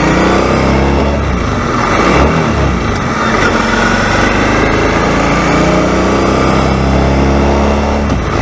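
A motor vehicle engine running loudly, its pitch rising and falling as it speeds up and slows down.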